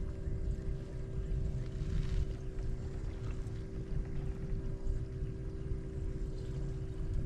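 Fishing boat under way: a steady motor hum over a low rushing rumble, which cuts off abruptly near the end.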